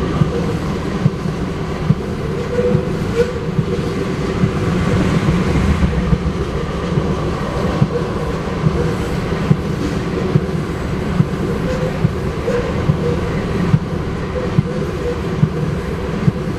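Loaded railroad tank cars of a freight oil train rolling past: a steady rumble of steel wheels on rail, with sharp clicks every second or so as the wheels cross rail joints.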